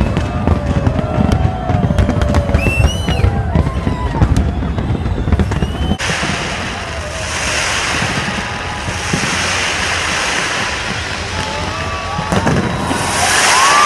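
Fireworks: a dense run of sharp pops, crackles and low bangs, then, after an abrupt change about six seconds in, a steady rushing hiss that swells again near the end.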